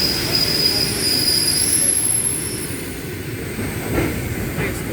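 Passenger train hauled by an EP2K electric locomotive rolling slowly into the station as it brakes to a stop, with a low rumble and a high, thin wheel squeal that fades after about two and a half seconds. A single clank comes about four seconds in.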